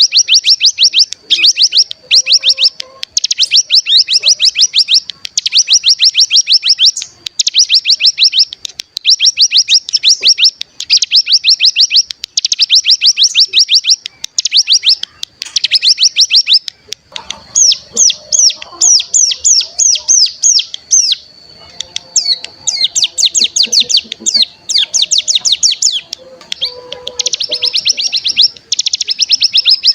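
Ciblek gunung (cigun) singing its fast rattling trill, the 'ngebren' song: loud bursts of rapid, repeated high notes, each about a second long, with short breaks between them.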